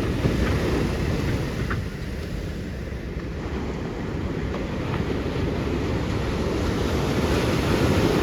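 Ocean surf breaking and washing on the beach with wind buffeting the microphone, a steady low rumble that eases briefly and then swells louder near the end.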